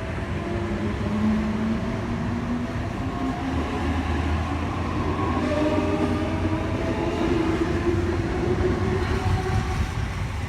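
H-set (Oscar) electric intercity train moving past the platform: steady running rumble with the whine of its traction motors, several tones slowly shifting in pitch.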